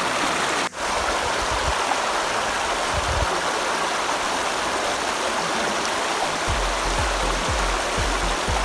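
River water rushing over rocks in a steady hiss, cut off for a moment about a second in. Low rumbles join it in the last couple of seconds.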